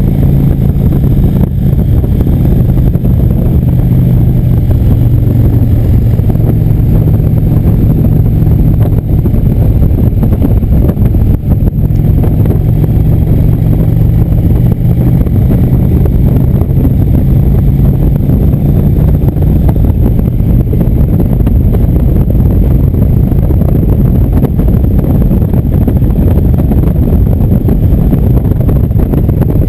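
Indian motorcycle engine running steadily under way, with road and wind noise; its low engine tone softens a little about two-thirds of the way through.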